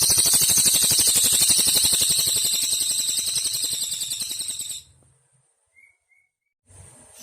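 Cililin songbird singing one long, very fast, high-pitched trill that slowly fades and stops about five seconds in. After it comes a short pause with two faint chirps, then faint insect-like background noise.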